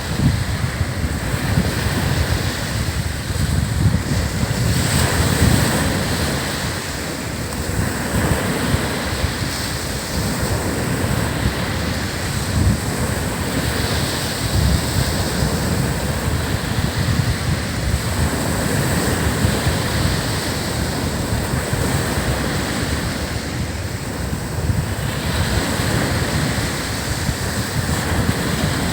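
Sea waves breaking and washing up a sandy beach, swelling and easing every few seconds, with wind buffeting the microphone as a low rumble.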